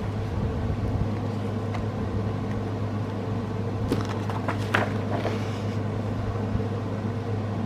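Steady low room hum, with a few faint clicks and rustles about four to five seconds in.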